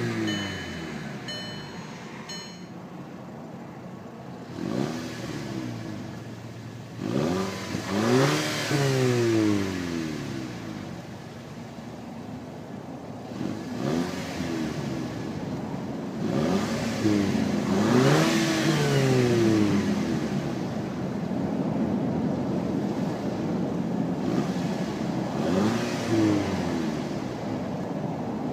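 A 2008 Audi TT's turbocharged 2.0-litre inline-four idles and is blipped about six times. Each rev rises and falls quickly, dropping back to idle in between. A repeating electronic beep sounds for the first couple of seconds.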